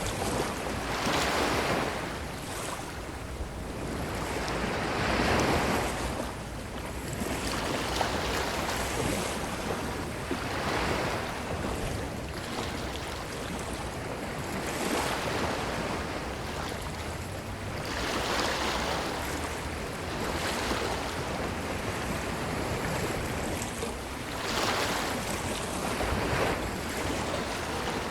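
Ocean waves breaking and washing up the shore, one surge after another every few seconds over a steady rush of surf.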